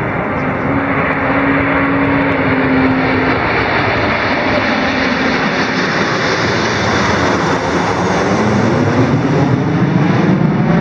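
Loud, steady jet noise from Kawasaki T-4 jet trainers flying past, the roar growing deeper near the end.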